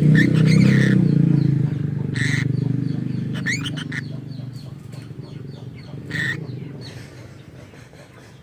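Lovebird giving several short, sharp chirps, some sliding in pitch, over a low engine rumble that fades away.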